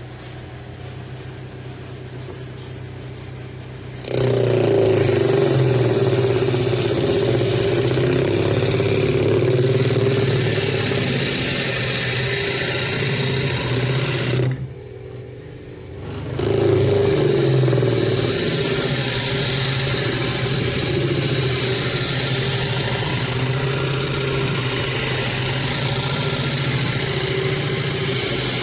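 Homemade disc sander driven by a treadmill massager motor. The motor hums steadily, then about four seconds in a loud, even sanding noise sets in as work is pressed against the abrasive disc. The sanding breaks off for about two seconds in the middle, leaving the motor's hum, and then resumes.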